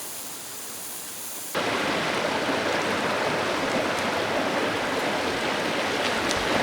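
A clear river flowing over stones with a steady rushing murmur. About a second and a half in, it suddenly gets louder and fuller.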